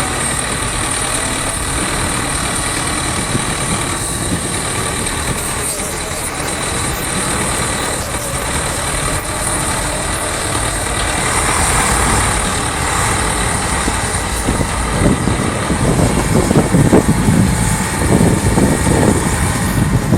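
A heavy vehicle's engine running amid outdoor street noise, with people's voices mixed in. It gets louder and more uneven in the last five seconds.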